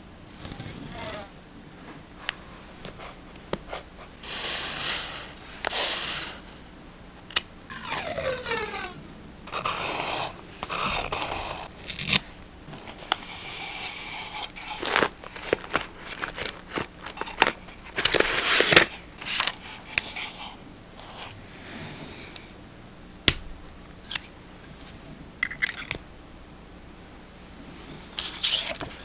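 Paper being handled and cut: irregular scissor snips, rustles and scrapes of paper, with a few sharp clicks scattered through.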